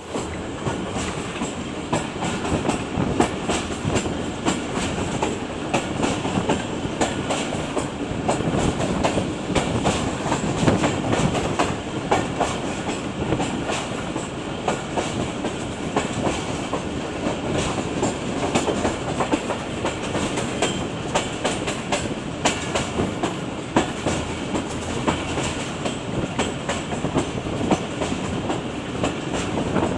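Train running on the rails: a steady rumble with frequent clicks and clacks of the wheels over the track.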